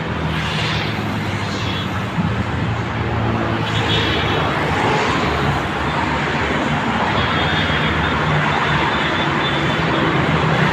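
Steady rumble of background traffic noise, with a continuous low hum and hiss and a few faint high squeaks now and then.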